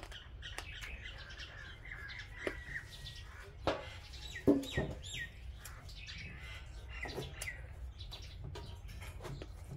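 Small bird chirping: a few short falling chirps, mostly around the middle, with scattered small clicks and knocks, the loudest about halfway.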